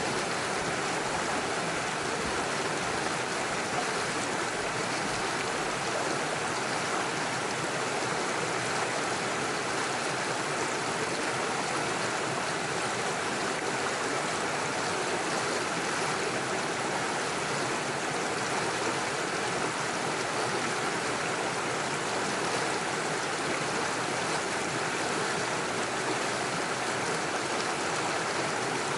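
Small rocky stream running steadily over stones and little waterfalls, a continuous rush and babble of water.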